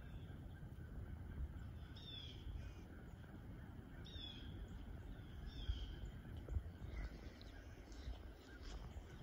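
Wild birds calling in the woods: a few short calls that slide down in pitch, about two, four and five seconds in, over a steady low rumble.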